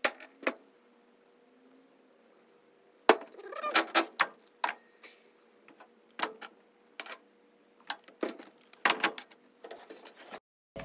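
Hand tools clinking and knocking on metal in irregular bursts as they are handled and set down, over a faint steady hum.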